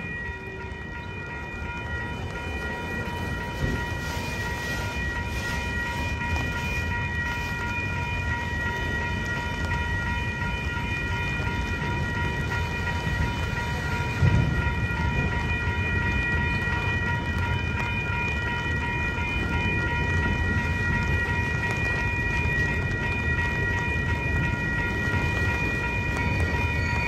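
Autorack freight cars rolling slowly through a grade crossing: a low, steady rumble of wheels on rail, with the crossing warning bell ringing steadily over it. A single heavier thump comes about fourteen seconds in.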